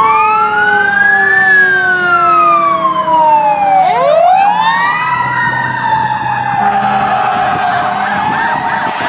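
Several fire apparatus sirens sounding together: electronic wails rising and falling over a slowly falling mechanical siren tone, likely a Federal Q, that winds back up about four seconds in. A fast yelp joins near the end.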